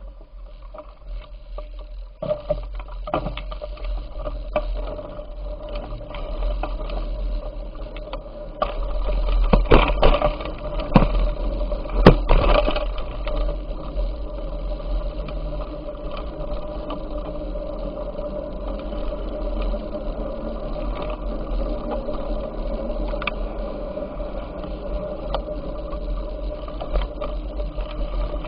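Bicycle in motion: a steady whirr from the tyres and drivetrain over a constant low rumble, with a few sharp knocks about ten and twelve seconds in.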